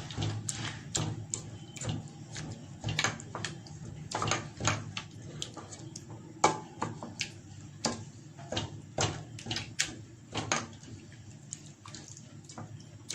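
Soft cooked pears being mashed in a pot with a utensil: irregular wet squelches and sharp clicks of the utensil against the pot.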